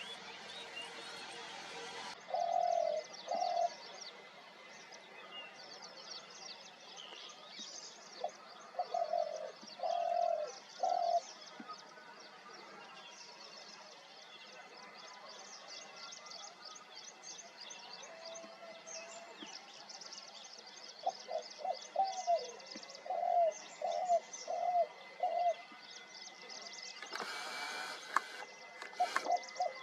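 A dove cooing in short runs of soft, low notes, four times over, against a steady background of many small birds chirping and twittering. A brief rush of noise comes near the end.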